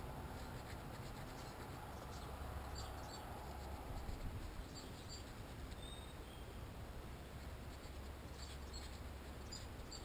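Faint scratching and handling noise over a steady low rumble, with a few short, high chirps scattered through it.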